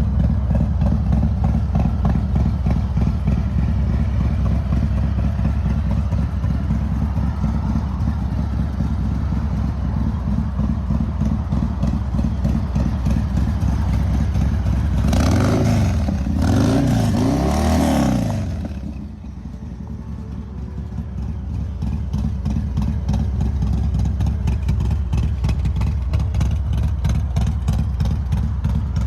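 Harley-Davidson Fat Boy's Milwaukee-Eight V-twin idling steadily, blipped up and down a few times about halfway through before settling back to idle.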